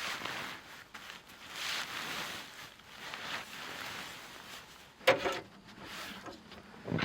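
Slow footsteps crunching in snow, about one every second and a half, then a single sharp clunk with a short ring about five seconds in.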